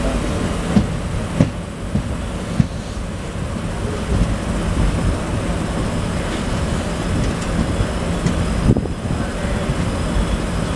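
Passenger train running over the track, heard from inside an open coach doorway: a steady low rumble of wheels and coaches, with a few sharp clicks from the wheels.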